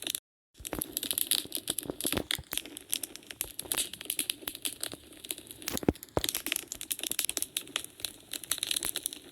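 Wood fire burning in a fireplace, crackling with dense, irregular snaps and pops, one of them louder about six seconds in. The sound cuts out completely for a moment just after the start.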